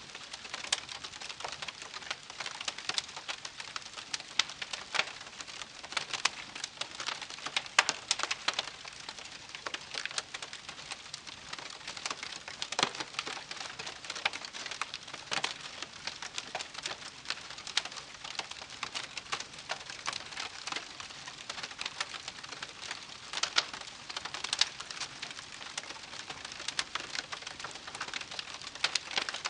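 Wood campfire crackling, with irregular sharp pops and snaps of varying loudness over a soft, steady hiss of burning wood.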